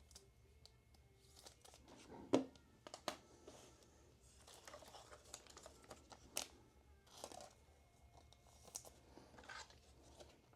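Trading-card packaging being handled and opened: faint plastic crinkling and tearing, broken by a few sharp taps and clicks, the loudest about two seconds in.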